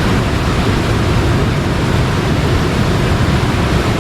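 Fast, swollen river current rushing steadily, a loud even noise with a heavy low rumble.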